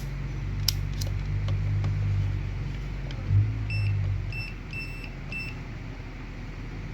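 Digital clamp meter giving four short beeps at one pitch, the third a little longer, as its range selector is set to ohms and auto-ranging is selected; two light clicks come earlier, over a low hum.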